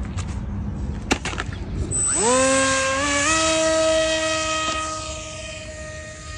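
A few sharp clicks, then a long horn-like tone that slides up in pitch as it starts, steps up a little, and is held steady for about four seconds while slowly fading.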